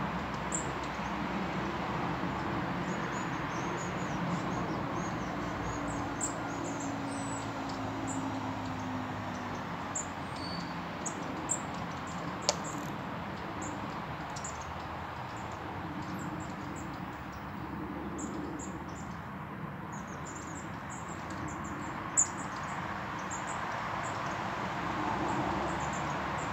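Small birds chirping in short, high calls scattered throughout, over a steady outdoor rush. There is a single sharp click about twelve seconds in.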